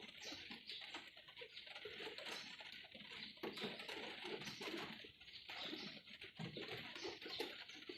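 Rain falling steadily, with many small irregular drips and taps pattering on nearby surfaces over a constant hiss.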